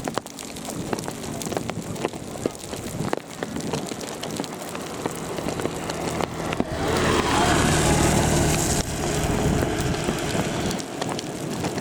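Heavy rain falling, with many small drop ticks. About seven seconds in, a louder rushing noise with a steady low hum swells for about two seconds, then eases.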